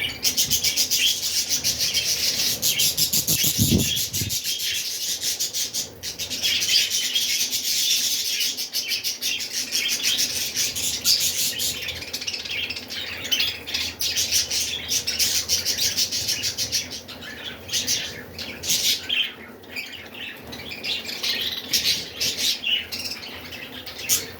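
A flock of budgerigars chattering and chirping without pause, a dense high twittering that thins out a little in the last third.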